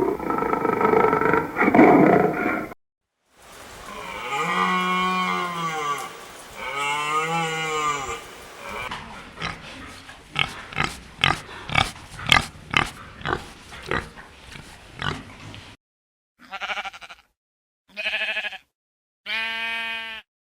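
A run of different animal calls, cut one after another: a rough roar-like call, two long calls that rise and fall in pitch, a fast series of short grunts, and near the end three short calls.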